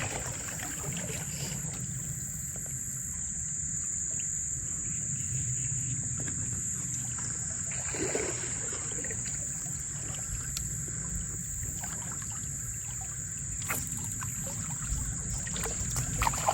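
Insects droning steadily at one high pitch, over a low steady rumble, with a few faint clicks.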